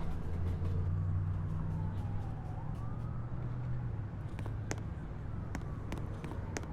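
Subway platform ambience: a steady low rumble that fades about four seconds in, with a faint whine gliding down and then back up, and a few light clicks toward the end.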